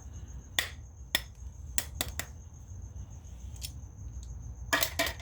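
Sharp taps of a homemade mallet on a lead ball mold's screw, irregularly spaced, with a quick cluster near the end. A steady high cricket trill runs behind.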